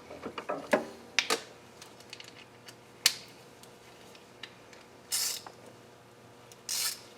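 Hand tools and small metal engine parts clicking and knocking while the old timing chain tensioner and its stuck hardware are worked loose, with two short rasping noises near the end.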